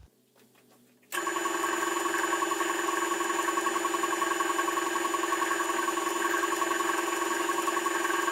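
Electric motor running steadily with a steady whine, switching on abruptly about a second in.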